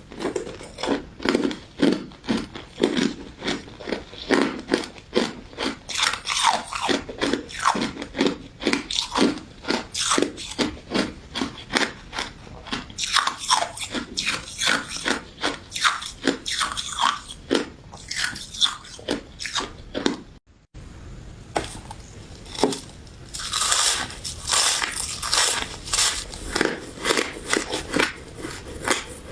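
Close-miked eating of a crunchy crystal ice and citrus jelly dessert: steady, rhythmic crunching bites and chewing, about two to three crunches a second. There is a brief break of silence about two-thirds of the way through.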